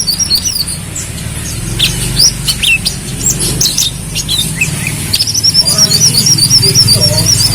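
Brown-throated sunbird (kolibri kelapa) singing: sharp high chirps and short down-slurred notes, then near the end a fast, continuous warbling trill. A steady low hum runs underneath.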